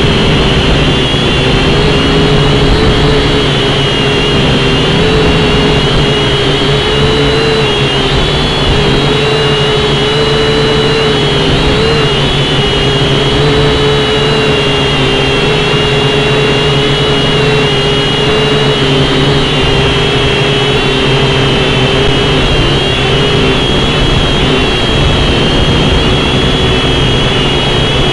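JJRC H5C quadcopter's motors and propellers whining steadily in flight, the pitch wavering slightly as it holds against gusts, over a low rumble of wind on the microphone.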